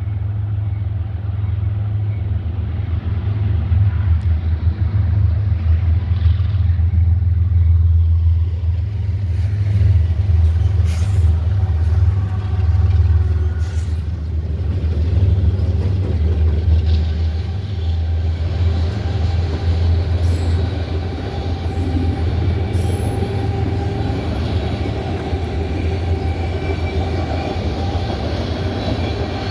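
A CSX freight train's four diesel locomotives rumble past with a deep, steady engine sound that comes in suddenly and is heaviest in the first half. Later, steady higher ringing tones from the wheels on the rails join in as the train rolls on.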